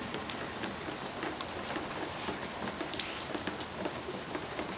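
Steady rain falling, heard as an even hiss with many small drop ticks scattered through it.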